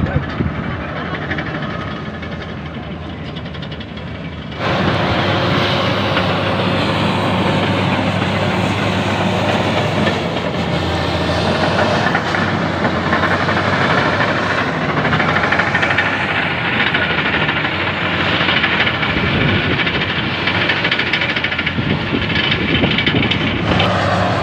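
Steady, loud vehicle noise with a hiss, jumping up suddenly about four and a half seconds in.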